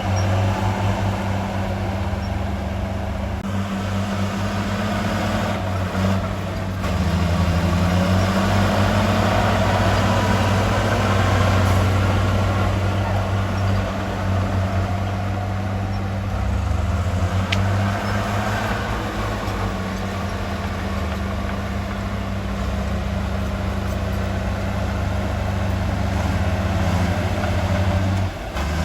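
Heavy construction machine's diesel engine running steadily, its speed rising and falling now and then.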